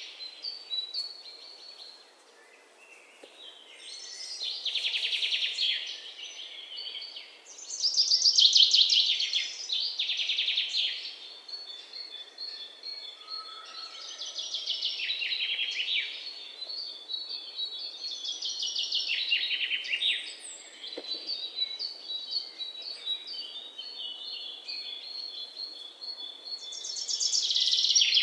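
Birds chirping in repeated bursts of rapid, high-pitched trills, each lasting a second or two with short gaps between, and a thin steady high tone under them through the middle and later part.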